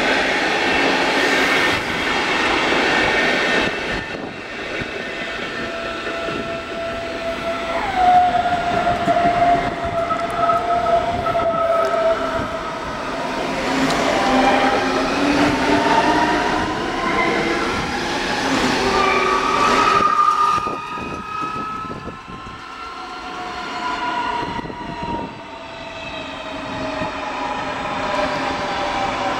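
Passenger trains running past on the main line: a locomotive-hauled ALEX train, then a red Munich S-Bahn Class 423 electric multiple unit passing close by, with wheel-on-rail rumble and several whining tones that slide in pitch.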